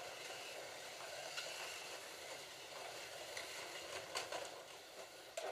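Slot cars running laps on the track: a steady whirring hiss from their small electric motors and pickup braids, with a few faint clicks.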